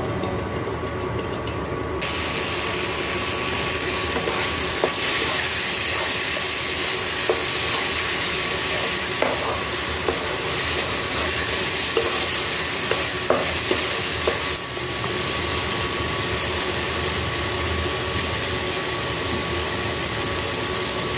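Onion and spice paste sizzling in oil in a non-stick wok while being fried down until the oil separates, with a spatula scraping and tapping the pan as it stirs. The sizzle grows much louder about two seconds in.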